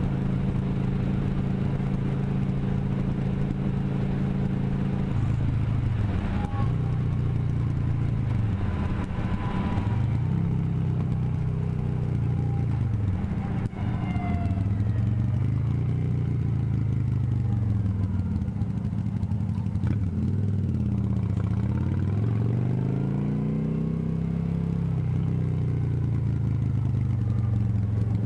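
Motorcycle engine running at a steady idle for about five seconds, then pulling away, its pitch rising and falling over and over as it is ridden.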